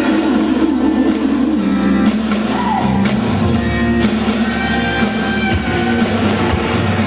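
Live pop band playing an instrumental passage, a guitar line over bass and drums, with no singing.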